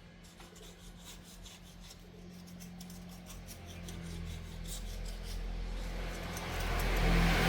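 Repeated rubbing or scraping strokes over a steady low hum, with a rushing noise that builds over the last couple of seconds.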